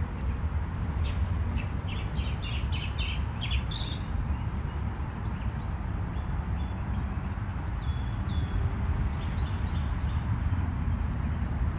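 A steady low rumble, with a small bird chirping a quick series of about six short, high notes a second or two in and a few fainter chirps later on.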